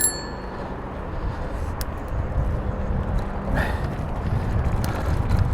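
Electric mountain bike climbing a rough dirt trail: tyres rumbling over the ground and wind on the microphone, with a steady motor hum that stops a little past halfway. A sharp metallic click rings out right at the start.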